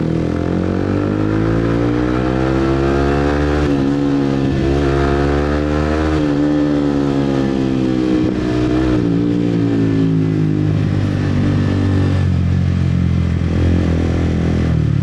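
Motorbike engine running while riding, its pitch climbing over the first few seconds, dipping briefly and climbing again, then falling away about ten seconds in and settling lower.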